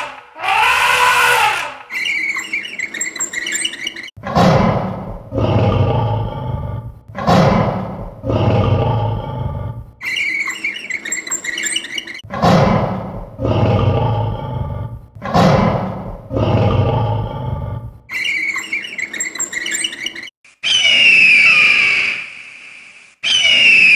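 An elephant's trumpet ends in the first second and a half. Then a lion roars in two series of four roars, each roar starting loud and dying away, with birds chirping faintly between the series. Near the end come two high, falling screeches of an eagle.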